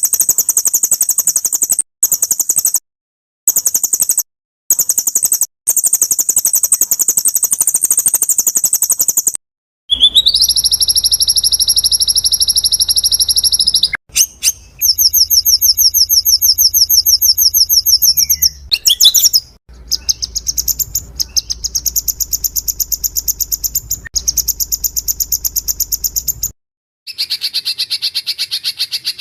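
Songbird songs spliced one after another: long, very fast high-pitched trills and rapid repeated notes, each piece cut off abruptly before the next begins, with a low hum under the middle pieces. This is a compiled bird-song tutor recording ('masteran') for training white-rumped shamas.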